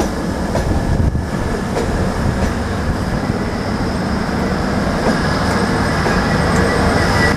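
East Coast passenger train's coaches rolling past along the platform: a steady rumble of wheels on rail with occasional clicks, and a faint high-pitched squeal over it.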